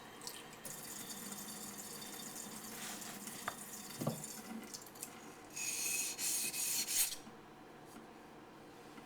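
Yanagi knife blade sliding across a waterstone slick with mud: a long steady scraping stroke, then a few shorter, louder strokes, then it stops.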